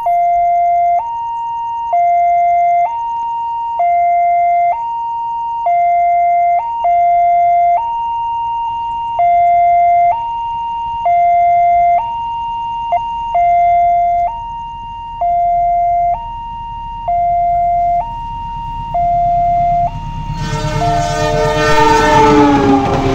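Automatic railway level crossing warning alarm sounding its two-tone signal, a higher and a lower tone alternating about once a second. About twenty seconds in, a train horn sounds, falling slightly in pitch, over the rising rumble of the approaching train.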